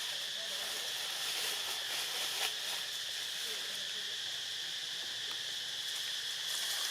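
Steady, high-pitched chorus of insects trilling without a break, with one brief click about two and a half seconds in.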